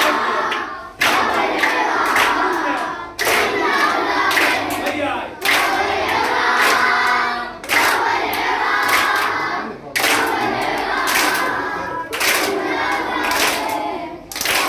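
A group of young children chanting loudly in unison in short phrases that begin about every two seconds, with hand claps mixed in.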